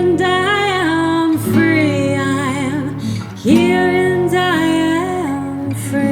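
Indie folk song: a woman sings three long, held vocal phrases with gliding pitch and vibrato over guitar accompaniment.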